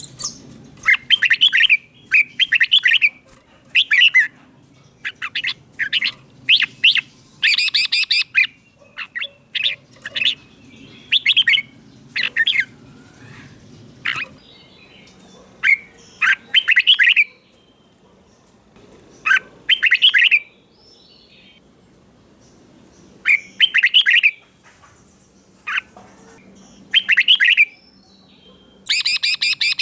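Red-whiskered bulbul singing: short, bright, warbling phrases repeated every second or two, with a couple of longer pauses in the middle. It is the loud, clear song that keepers play to excite caged bulbuls or to teach young birds.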